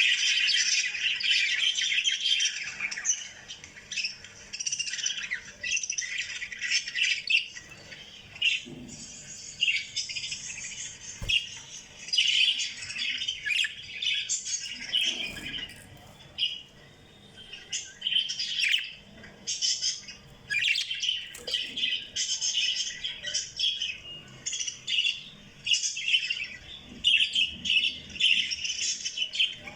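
Small pet parrots kept as love birds, chirping and squawking in rapid, high-pitched calls that run on almost without a break, with a few short lulls.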